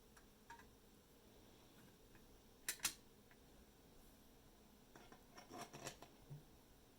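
Small clicks and taps of hand work on parts over quiet room tone: a faint click, then two sharp clicks in quick succession a little under three seconds in, and a short run of clicks and rubbing between about five and six seconds.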